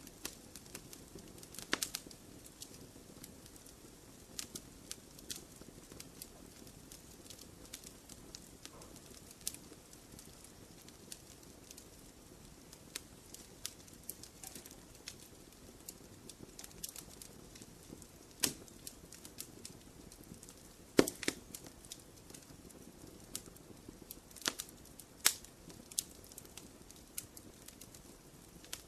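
Wood fire crackling in a fireplace: irregular pops and snaps over a soft, steady low hiss, with one sharper, louder pop about two-thirds of the way through.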